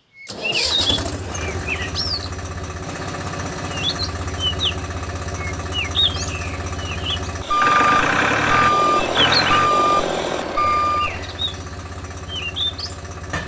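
A vehicle engine running steadily, with birds chirping throughout. In the middle, over a few seconds of louder engine noise, a reversing beeper sounds four times, about once a second.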